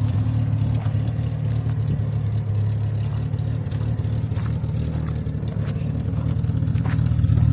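Triumph TR6's straight-six engine idling steadily through its worn existing exhaust, which has holes in it.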